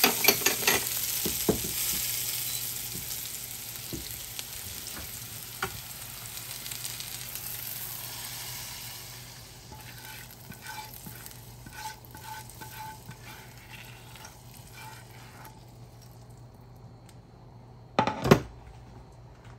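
Garlic and dried red chillies sizzling in hot oil in a nonstick pan, with a silicone spatula scraping and clicking against the pan as it stirs; the sizzle fades away over the first half. Small crackles follow as the tadka goes into the dal, and a loud knock comes near the end.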